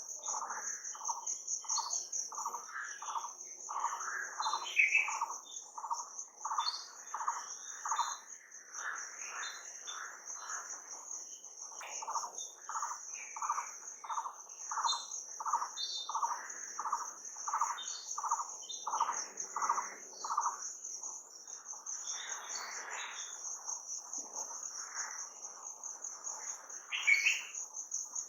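Nature ambience: a steady high-pitched insect trill, with birds chirping. For the first twenty seconds a mid-pitched call repeats about twice a second, then the calls become more scattered.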